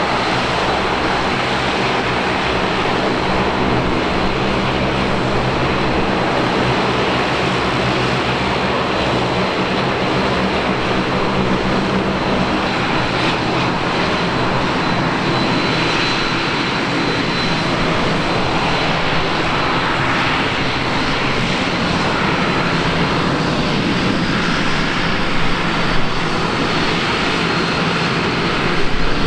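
Dash 8-400 (Q400) turboprop's two Pratt & Whitney PW150A engines and propellers running, a loud, steady drone with a high whine; the low engine tones shift partway through.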